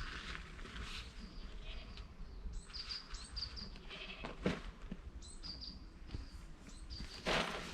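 Birds calling, with short high chirps repeating. A sharp knock comes about four and a half seconds in, and a brief rustle near the end.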